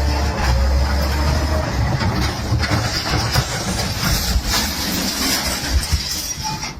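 Loud vehicle noise: a low engine rumble under dense rattling and clattering, the steady rumble fading about two seconds in.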